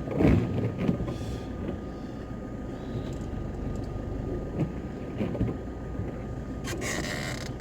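Camper van driving off: steady engine and road noise, with a brief louder low thump just after the start.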